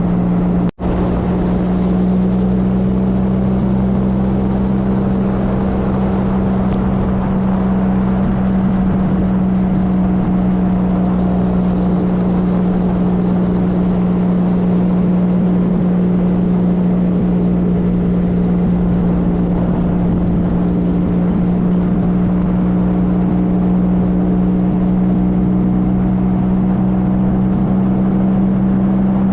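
2013 Triumph Trophy SE's inline three-cylinder engine running at a steady cruising pitch, with wind and road noise. The sound drops out briefly about a second in.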